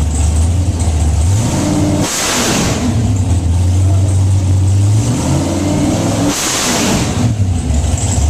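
Large engine idling and revved twice, each time rising in pitch to a loud hissing burst, then dropping back to idle.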